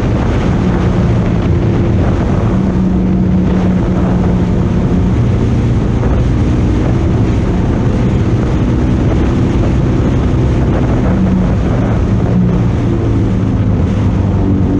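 Motorcycle engine running at speed on a track, its note rising and falling as the rider works the throttle, under heavy wind noise on a bike-mounted camera's microphone.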